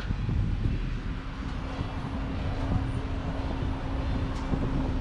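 2019 Audi RS3's turbocharged five-cylinder engine running at idle just after start-up, a steady low rumble. A steady hum joins it about a second in.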